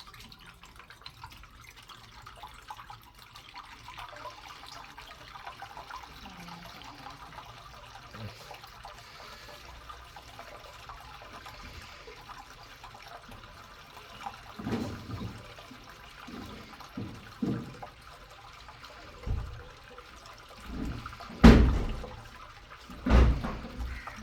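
Water balloons bursting one after another, each pop letting out a splash of water; for the first half only faint trickling, then several bursts from about halfway, the loudest two near the end.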